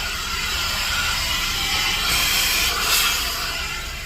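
Car wash vacuum hose sucking air with a steady rushing hiss, which swells briefly about two and three seconds in.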